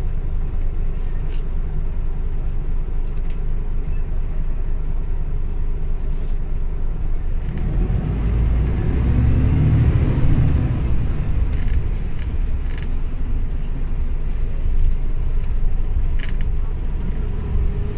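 Scania OmniLink city bus driving. Its engine grows louder and climbs in pitch about eight seconds in, then eases back, with scattered small rattles and clicks.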